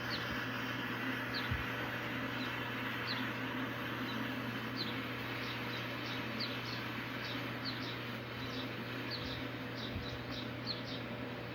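Steady rush of river water flowing downstream, with many short high chirps over it that come thicker in the second half.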